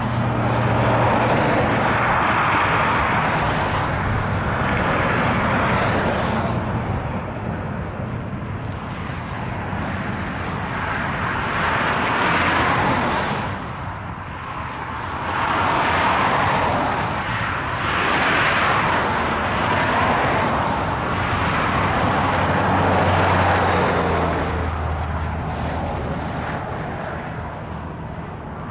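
Loaded BNSF coal train rolling by, a noise that swells and fades every few seconds, with a low diesel locomotive hum at the start and again near the end, and wind buffeting the microphone.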